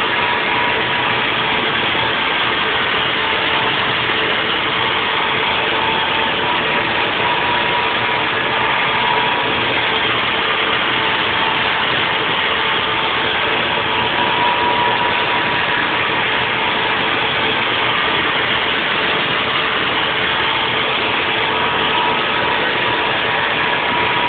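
Haas VF4 vertical CNC mill 3D-machining a nest block: a steady, even cutting noise with a constant whine that swells and fades.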